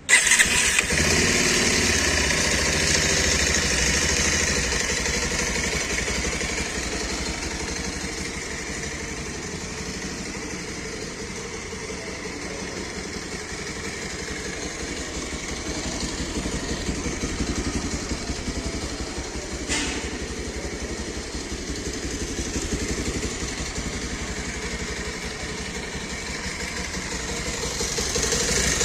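Bajaj Pulsar 180's 178.6 cc single-cylinder engine running at idle through its exhaust, loudest at the start and swelling slightly a few times. A single sharp click about 20 seconds in.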